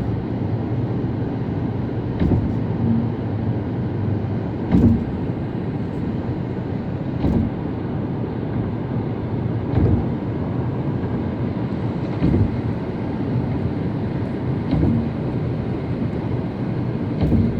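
Car driving on a highway: steady tyre and engine road noise with a low hum, and a short thump about every two and a half seconds as the tyres go over joints in the road.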